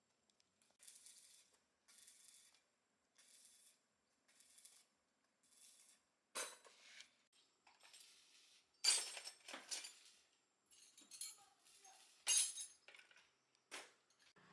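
Five even, scratchy strokes about a second apart, then a run of sharp clinks and knocks of small hard objects, the loudest about nine and twelve seconds in.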